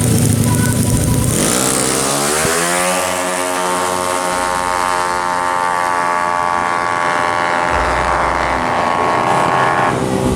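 Racing 200 cc automatic scooter engine running low, then about a second and a half in revving up steeply and holding at high revs with a steady high-pitched note, which cuts off about ten seconds in.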